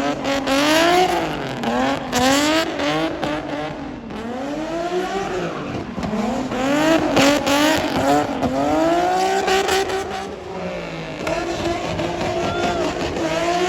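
A car engine revving hard over and over, its pitch climbing and dropping every second or two, as a car is driven hard at a street car meet.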